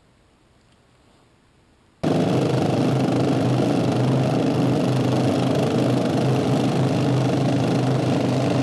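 Near silence, then about two seconds in an engine is suddenly heard running at a steady, unchanging idle.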